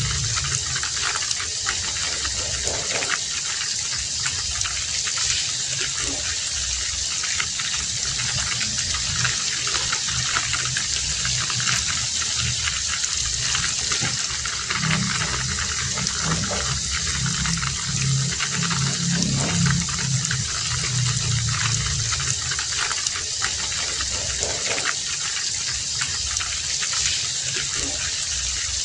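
Heavy rain falling steadily, heard as an even hiss, with a low rumble that swells and fades underneath.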